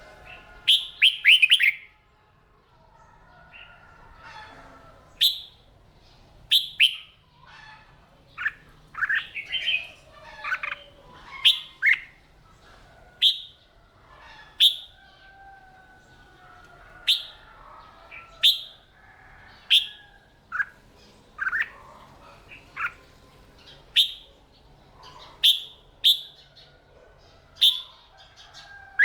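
Red-whiskered bulbuls singing: loud, short, sharp phrases and chirps repeated about once a second, with a quick run of notes near the start and again about a third of the way in. Fainter gliding whistles from other birds sit behind them.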